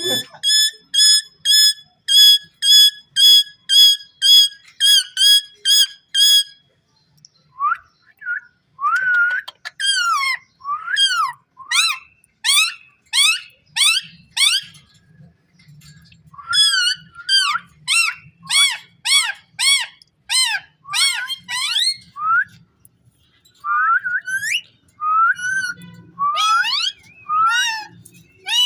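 Pet ring-necked parakeet whistling. It first gives a run of short notes held at one pitch, about two or three a second, then a long string of quick whistled calls that sweep up and down.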